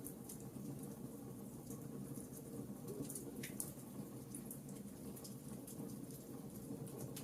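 Wood logs burning in a fireplace: a steady low rumble of flames with frequent small, sharp crackles and pops at irregular intervals, one somewhat fuller pop about halfway through.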